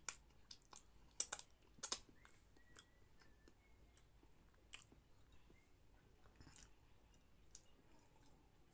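Close-up mouth sounds of a person eating: chewing with a series of sharp, wet lip smacks as food is licked off the fingers, several in quick succession about one to two seconds in, then fewer and more spread out.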